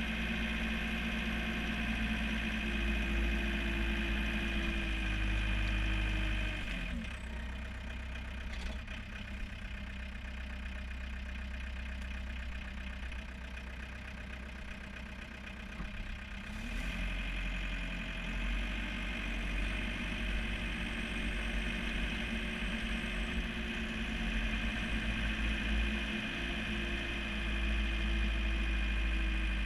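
John Deere 4720 compact tractor's diesel engine running steadily. About seven seconds in its revs drop and it runs lower and quieter for about ten seconds, then it revs back up.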